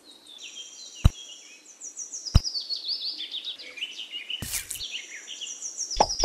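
Small birds chirping and twittering in quick, repeated falling phrases. Two sharp knocks sound about one and two and a half seconds in, and a short burst of noise comes a little past the middle.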